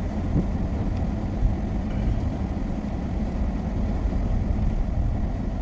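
Steady engine and road rumble heard from inside the cabin of a moving car, driving on a snow-covered road.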